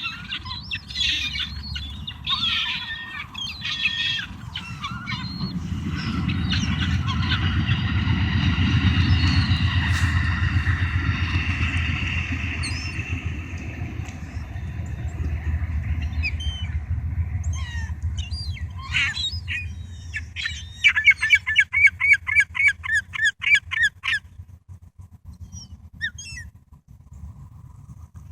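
Gulls squawking and calling over food, ending in a rapid run of calls at about four a second. A low rumble swells and fades through the middle.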